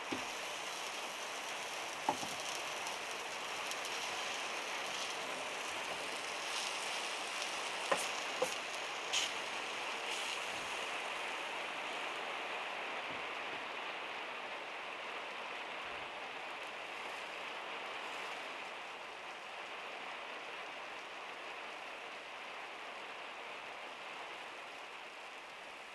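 Rain drumming steadily on the van's metal roof, with a few sharper single taps of heavier drops about two seconds in and again around eight to nine seconds in.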